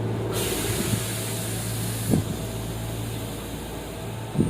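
Electric commuter train interior: a steady hum with several steady tones, cut across by a hiss of compressed air that starts about half a second in and stops suddenly about two seconds in. A few short knocks sound, the last near the end.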